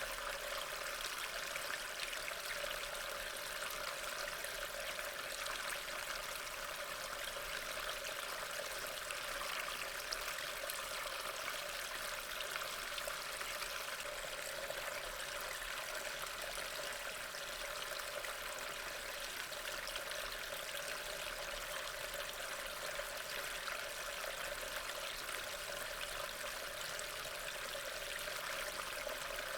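Steady rain falling: an even, unbroken wash of water sound.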